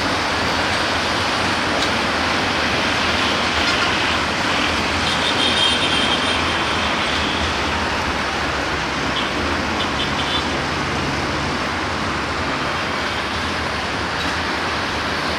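Passenger train carriages rolling along the track, a steady rumble of wheels on rails that slowly fades as the train moves away.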